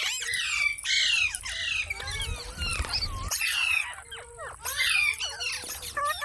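Green parakeet squawking and chattering: a rapid run of short, harsh calls with quick falling pitch sweeps, several a second.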